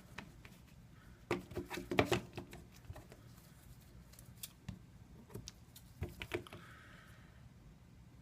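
Small clicks and crackles from double-sided adhesive tape being handled and laid along an iPad 2 bezel. They come in a cluster about a second in and again around six seconds in.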